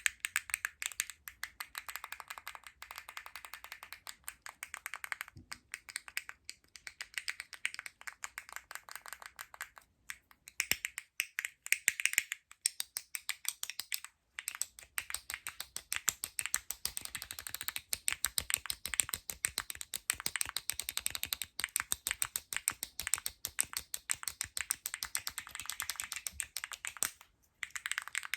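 Fast, aggressive ASMR tapping and scratching on plastic and cardboard: a dense stream of sharp clicks and taps, many a second, broken by a few brief pauses.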